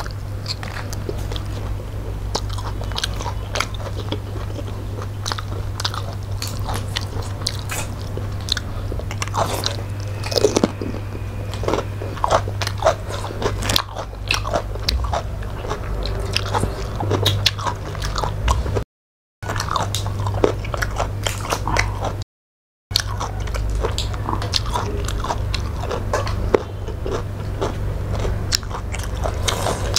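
Close-miked eating sounds: two people chewing and biting into fish and rice eaten by hand, with many small irregular clicks, over a steady low hum. The sound drops out twice, briefly, a little past the middle.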